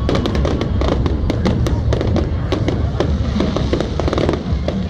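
Fireworks going off in quick succession: rapid, dense crackling and popping with bangs over a continuous low rumble.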